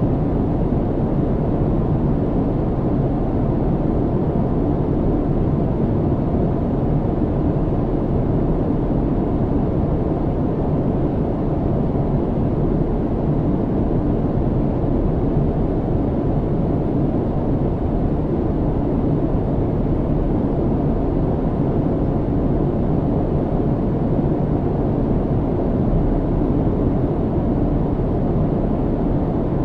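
Steady low cabin rumble of an airliner in flight: engine and airflow noise heard from inside the cabin, muffled and even, with no changes.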